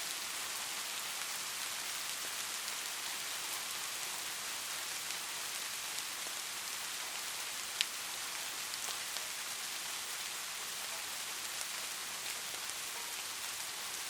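Light rain falling steadily, an even hiss with scattered drop ticks and one sharper drop about eight seconds in.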